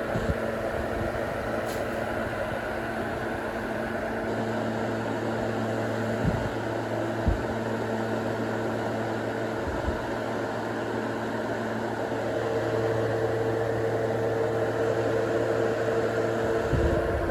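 Duracraft DT-50 10-inch table fan running with a steady whir and motor hum, the hum changing about four seconds in and getting louder about twelve seconds in, with a few light knocks. The fan is way too noisy for the little air it moves.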